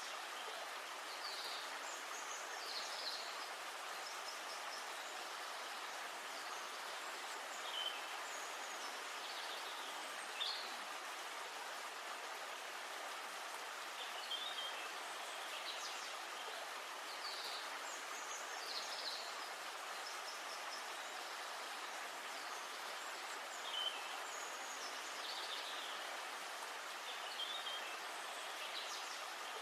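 Small birds chirping and singing on and off over a steady rush of flowing river water.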